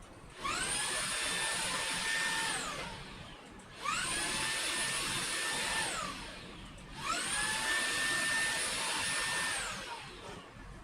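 Laresar Elite 1 cordless vacuum cleaner's motor switched on three times. Each time it whines up to speed, runs steadily for about two seconds, then winds down with a falling whine.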